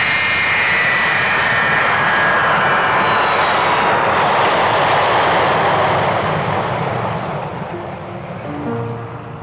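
Jet airliner engines running loud at takeoff power, with a high whine that fades in the first few seconds. The noise swells midway, then dies away over the last few seconds.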